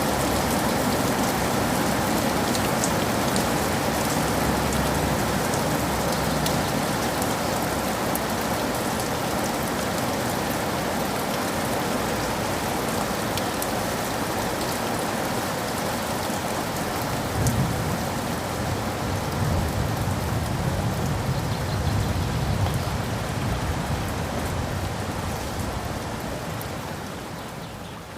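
Steady rain falling, with low rumbles of soft thunder a little over halfway through. The sound fades out near the end.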